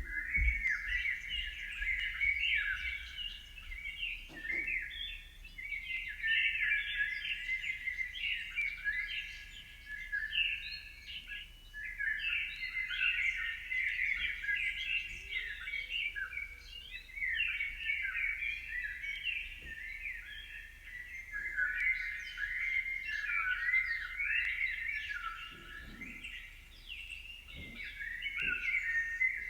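Birds chirping and singing, many short overlapping calls and quick pitch glides that run on without a break.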